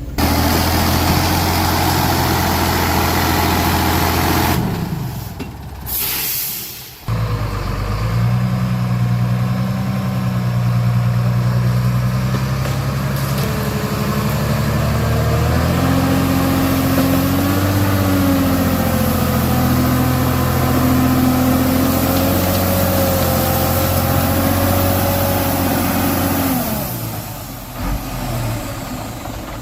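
Heavy truck's diesel engine running hard under load, its pitch stepping up and down as the throttle changes. It drops away briefly about five seconds in, then comes back.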